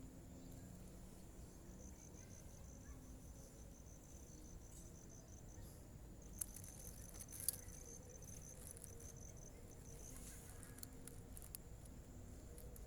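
Faint insect trill: a fast, even run of high chirps that breaks off briefly midway, with two faint clicks in the middle.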